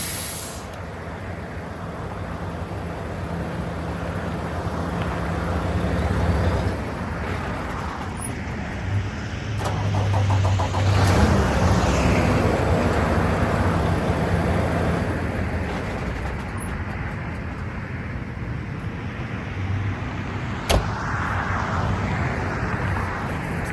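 Mack GU713 dump truck's diesel engine running steadily, getting louder for a couple of seconds about ten seconds in. A single sharp knock comes near the end.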